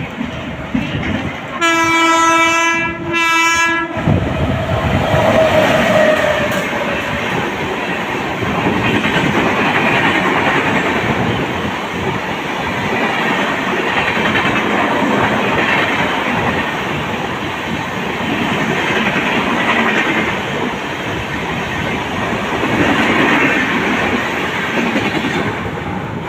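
Mumbai suburban local electric train sounding its horn, two blasts a little under two seconds in, then running on the rails with a steady rumble and clickety-clack of wheels over rail joints.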